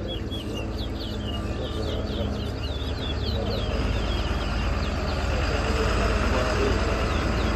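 A caged towa-towa (chestnut-bellied seed finch) singing a rapid run of short, high whistled notes, the song that is tallied in a bird-song race. The notes are densest in the first few seconds and thin out later, over a steady low rumble.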